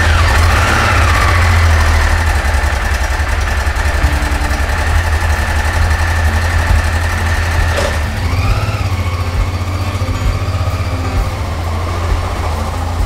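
Motorcycle engine running while riding, with a strong steady low rumble and a wash of wind noise across the microphone.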